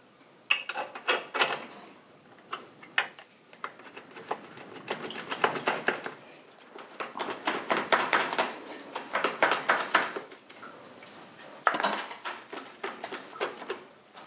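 Metal exhaust pipe sections clinking and scraping as they are slid and twisted together at their slip joints, in a run of irregular knocks and rasps.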